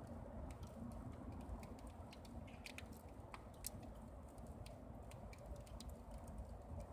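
Wood campfire crackling faintly, with small irregular snaps and pops over a low rumble.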